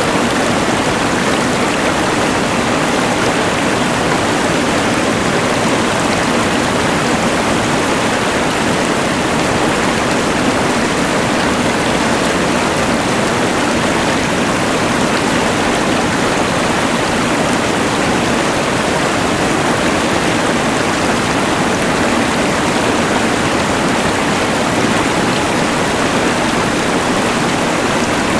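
Rushing mountain river mixed with the steady hiss of a LectroFan white noise machine: an even, unbroken wash of water noise with no changes.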